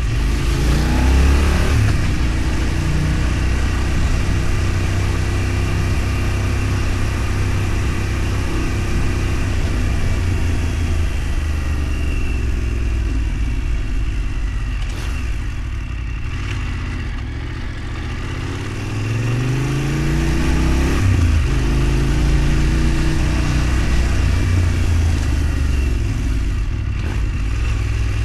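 A road vehicle's engine running under way, its pitch rising as it accelerates and dropping at gear changes about a second in and again near two-thirds of the way through, over a steady rush of noise.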